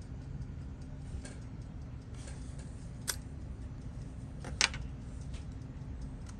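Small, sharp metal clicks and taps of watchmaking tools on a wristwatch movement's parts during disassembly, scattered and irregular, with the loudest click about four and a half seconds in. A steady low hum runs underneath.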